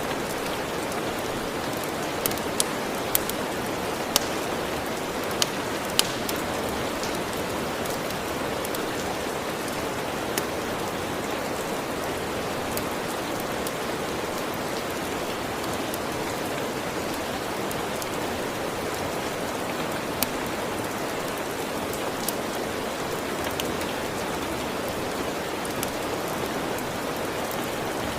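Steady rain with the sharp pops of a crackling wood fire on top, a cluster of them in the first six seconds and a few more scattered later.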